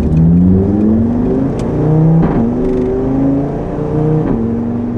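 Tuned Audi RS3's five-cylinder turbo engine under hard acceleration, heard from inside the cabin. Its pitch climbs and drops back at upshifts about halfway through and again near the end. The tone is clean and even, the five-cylinder note.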